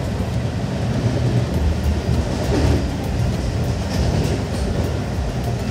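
Steady rumble of an Indian Railways express coach running along the track, heard from inside through a closed window, with faint, irregular ticks from the wheels and rails.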